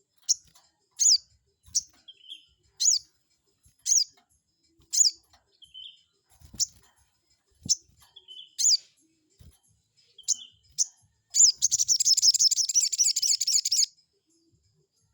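Sogon bird calling: short, sharp, high notes falling in pitch, about one a second, some followed by a lower note. A fast rattling chatter of about two and a half seconds comes near the end. This is a lure call ('pancingan') used to provoke rival sogon birds into answering.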